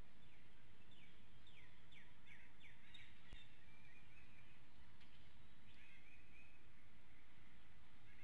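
A bird calling: a quick run of short, falling high notes over the first few seconds, then one more brief call a little past the middle, over a steady low outdoor rumble.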